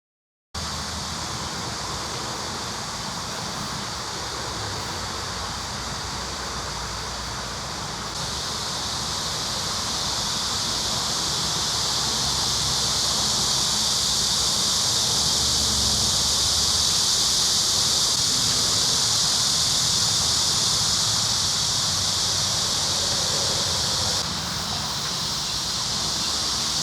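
Steady insect chorus, a continuous high-pitched buzzing hiss, growing louder several seconds in and dropping off suddenly near the end.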